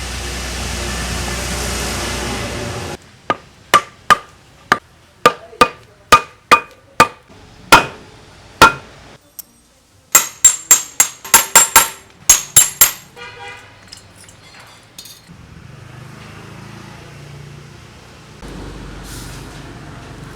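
Hammer striking metal engine parts: about a dozen sharp, ringing blows roughly half a second apart, then a quicker run of brighter, higher-pitched clinks. It opens with a few seconds of steady hiss.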